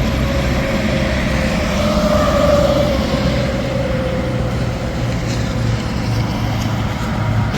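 Interstate traffic with a semi truck passing: steady engine drone and tyre noise, with a tone that swells about two seconds in and then drops slightly in pitch as the truck goes by.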